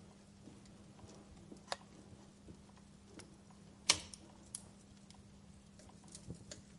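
Wood fire crackling in a fireplace: scattered small crackles and ticks, with one loud pop about four seconds in.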